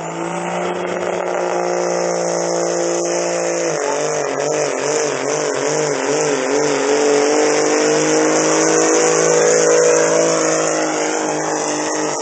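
Cummins diesel in a 2000 Dodge pickup pulling the sled at full throttle, engine held at high, steady revs. About four seconds in the pitch drops a little and wavers for a few seconds before holding steady again, loudest near the end.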